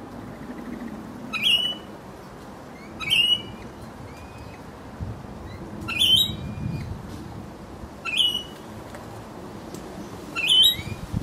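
A pet parrot giving short, high, shrill calls, five of them spaced about two seconds apart.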